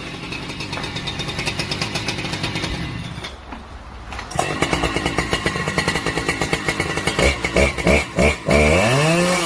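Two-stroke chainsaw engine running, easing off to a lower, quieter run about three seconds in, then opened up again about a second later; near the end its pitch swings up and back down as the throttle is worked.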